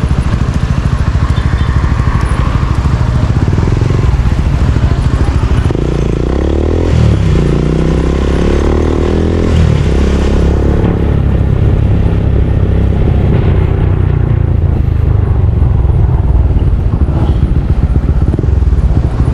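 Motorcycle engine running close by while riding, its note rising twice between about six and ten seconds in as it speeds up.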